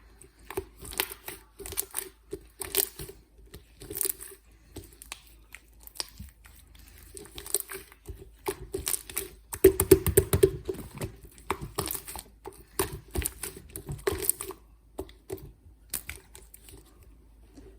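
White slime being squished, stretched and pressed by hand, giving irregular sticky clicks, crackles and small air-bubble pops, busiest and loudest about ten seconds in.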